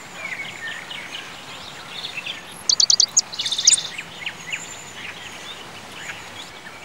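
Several songbirds chirping and singing over a steady outdoor hiss. About three seconds in comes a quick run of loud, high piercing notes, followed by a short buzzy trill.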